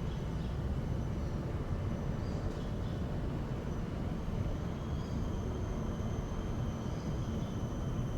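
Outdoor ambience: a steady low rumble, with a thin high-pitched steady tone coming in about halfway through.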